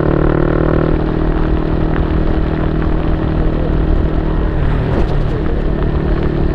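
Yamaha Y15ZR's 150cc single-cylinder four-stroke engine running through an aftermarket YYPANG SD3 exhaust, a steady drone whose pitch shifts about four and a half seconds in.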